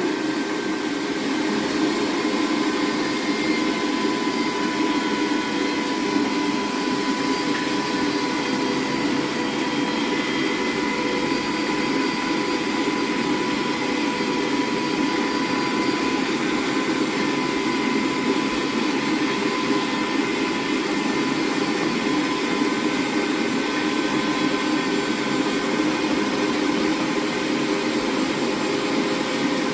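Electric meat grinder running steadily as it grinds pork shoulder, a continuous motor hum with a steady whine.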